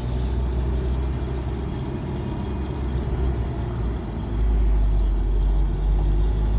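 1992 Ford Ranger pickup heard from inside the cab while driving: steady engine and road rumble, which gets louder about four seconds in as the engine pulls harder.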